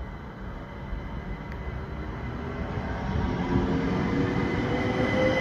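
GWR electric multiple-unit train approaching along the platform, growing louder from about three seconds in. Its running noise carries a steady high whine and a lower tone that slowly rises in pitch.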